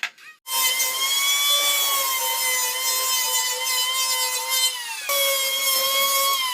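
An electric power tool working wood: a steady motor whine over a rasping cutting noise. It starts suddenly about half a second in, dips in pitch for a moment near five seconds, and winds down at the end.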